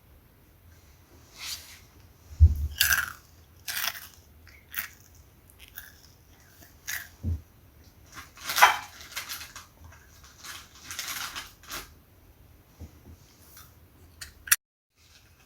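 Someone biting and chewing a crunchy snack, with irregular crunches that are loudest about two and a half and eight and a half seconds in. The sound cuts out abruptly for a moment near the end.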